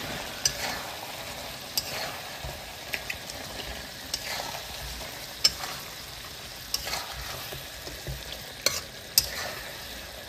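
Mutton and spiced masala sizzling in oil in a kadai while a metal spatula stirs and scrapes through the pieces, knocking sharply against the pan about ten times at irregular intervals. The oil is beginning to separate from the masala, the sign of the bhuna stage.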